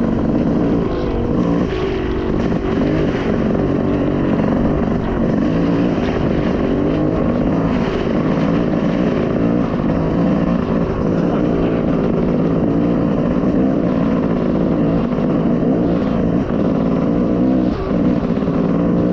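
Engine of a small off-road vehicle running steadily as it rides the track, its pitch rising and falling slightly with the throttle.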